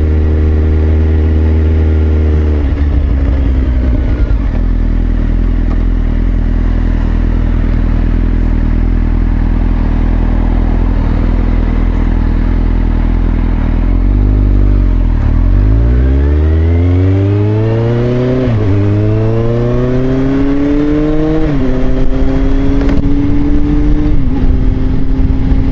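Motorcycle engine running at steady revs, then dropping back, then accelerating hard through the gears: the pitch climbs in each gear and drops sharply at three upshifts in the second half.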